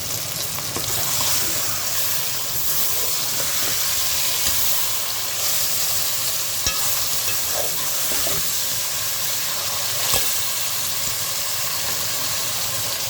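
Chicken and tomatoes sizzling as they fry in oil in a pot while being stirred, a steady hiss throughout, with a couple of sharp knocks about seven and ten seconds in.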